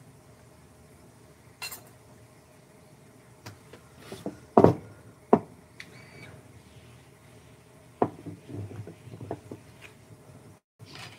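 Irregular knocks and clinks of hard objects being handled and set down, about a dozen scattered sharp hits, loudest near the middle.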